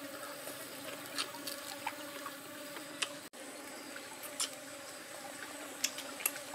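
A person eating cooked snake meat: small, scattered mouth clicks and lip smacks from chewing, over a steady insect buzz.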